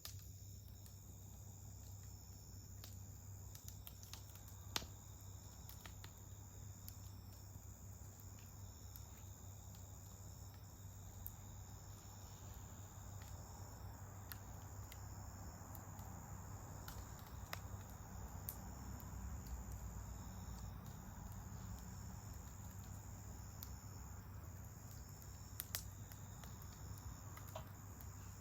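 Faint, steady high-pitched trilling of crickets, with scattered sharp pops and crackles from a wood campfire, the loudest pops about five seconds in and near the end.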